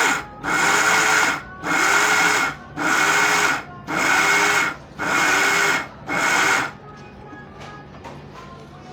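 Electric mixer grinder run in pulse mode: seven short bursts about a second apart, grinding nuts, spices and sugar into a fine thandai powder. In each pulse the motor's pitch rises as it spins up and falls as it stops.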